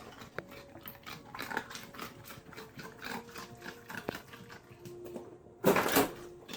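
A dog making a run of short, irregular noises, with one louder, longer burst near the end.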